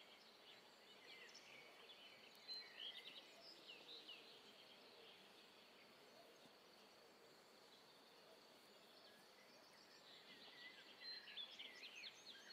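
Faint songbirds chirping and trilling over a quiet outdoor hiss, in two spells: about two seconds in and again near the end.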